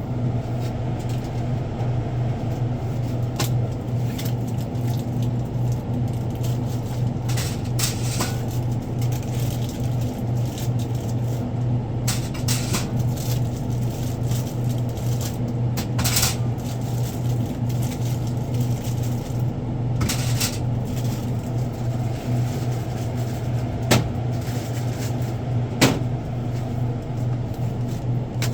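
A steady low hum runs under scattered knocks, clicks and rustles of goods and boxes being handled during stocking, with two sharper knocks near the end.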